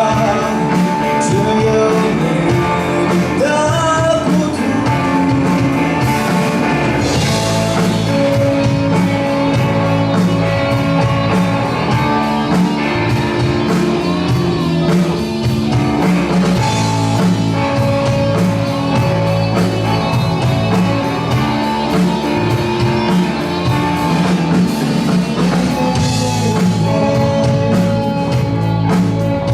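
Live rock band playing a song, with a singer over guitar and drums.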